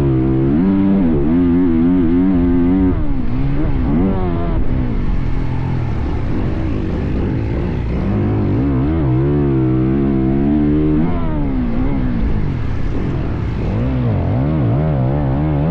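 Motocross bike engine revving hard while ridden around a track, its pitch rising and falling over and over as the throttle is opened and closed.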